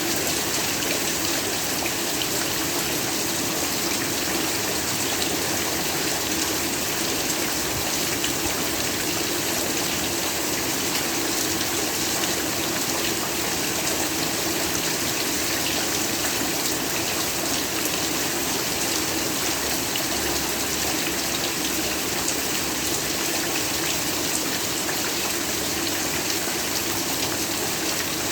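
Steady heavy rain falling, a dense even hiss with fine scattered drop ticks.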